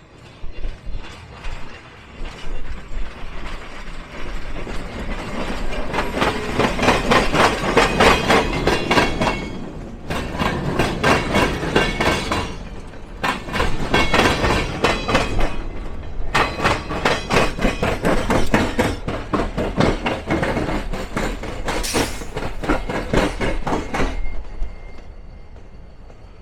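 Railroad cars rolling across a diamond crossing, the wheels clattering over the crossing in quick rhythmic groups with short lulls between cars. It builds up over the first few seconds and fades as the last cars pass near the end.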